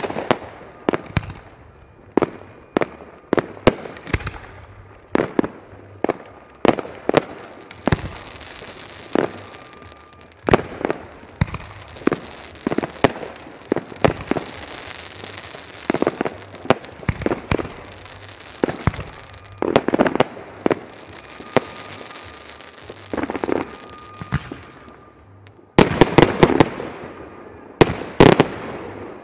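Fireworks going off: a steady run of sharp bangs, one or two a second, with a hissing crackle underneath through the middle, and a dense rapid volley of bangs near the end.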